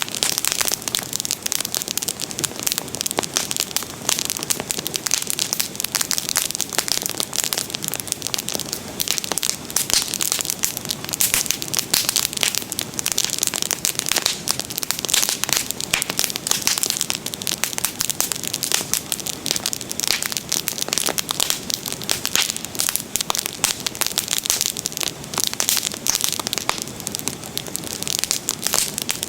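Bonfire crackling, with a dense, continuous run of sharp pops and snaps.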